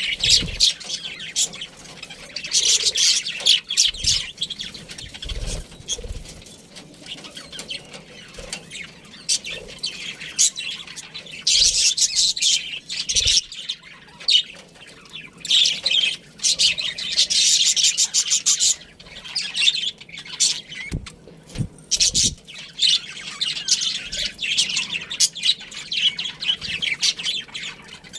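Pet budgerigars chattering, with rapid high chirps and warbles coming in bursts of a second or two. A few soft low knocks sound in between.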